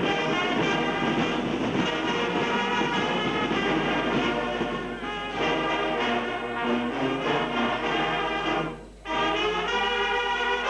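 Brass band playing, several horns sounding held notes together, with a short break about nine seconds in.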